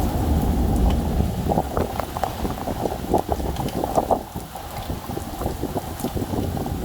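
Thunderstorm rain, with a low rumble of thunder dying away over the first second or two, then a dense patter of raindrops hitting a nearby surface over a steady wash of rain and wind.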